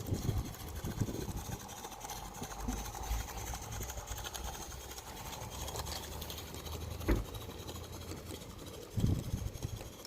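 16mm-scale Roundhouse Engineering live-steam locomotive running, with rapid, even exhaust beats. A sharp click about seven seconds in and a short thump near the end.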